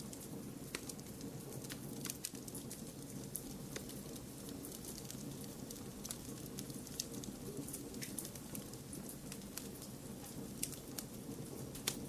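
Wood fire crackling in a fireplace, with irregular sharp pops and snaps over a steady low rush of noise.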